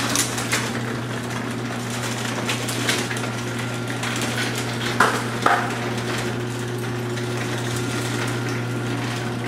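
Electric garage door opener running as it lowers a wooden sectional garage door: a steady motor hum with the rollers and hardware rattling and clattering, and two sharp clanks about five seconds in.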